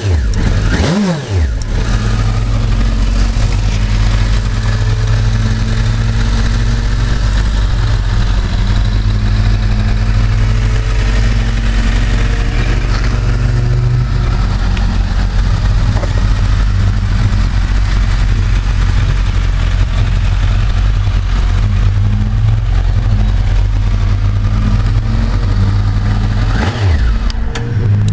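2010 Suzuki GSX1250FA's inline-four engine idling steadily, with a quick blip of the throttle about a second in and another near the end.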